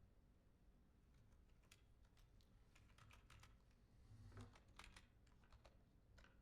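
Faint typing on a computer keyboard: irregular key clicks, a little denser about two-thirds of the way in.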